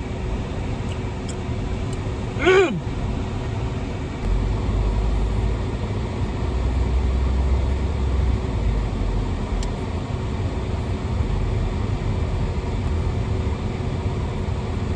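Steady low rumble inside a car, growing stronger about four seconds in, with a short vocal sound about two and a half seconds in.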